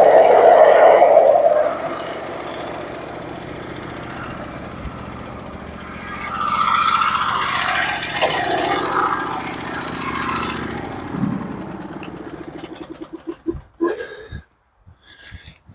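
Norwood HD36v2 portable bandsaw mill running under its engine, louder at the start and again in the middle, then shut off about twelve seconds in and winding down to a stop. A few knocks follow near the end.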